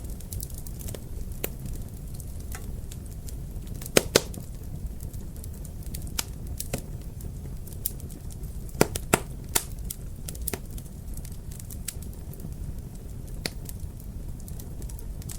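Fireplace fire crackling over a steady low rumble, with many small sharp pops and a few louder ones about four seconds in and again around nine seconds.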